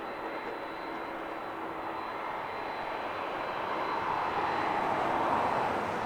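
Jet engines of a Boeing 737-800 freighter (CFM56-7B turbofans) passing. The noise swells to its loudest about five seconds in, and its pitch drops as the aircraft goes by.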